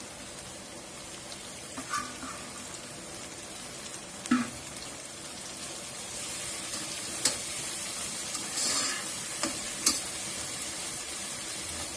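Chopped tomatoes and spring onions sizzling as they fry in oil in a pot, with a spatula stirring and a few sharp clinks of utensils against the pot. The sizzle grows louder about halfway through.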